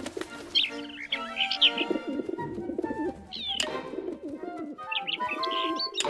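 Cartoon sound effects of a flock of pigeons cooing over one another, mixed with short high chirps of a small bird, over light background music. One sharp click about three and a half seconds in.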